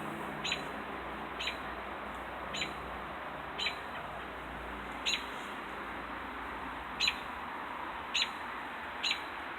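A bird calling loudly, one short sharp chirp repeated over and over, about eight times at roughly one-second intervals.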